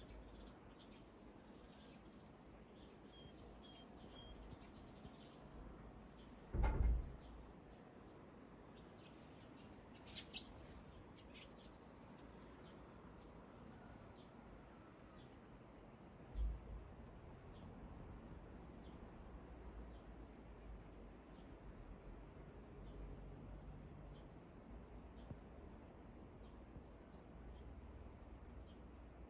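Steady high-pitched trill of crickets or other insects, with a few faint bird chirps. Two dull low thumps come about a third of the way in and just past halfway; the first is the louder.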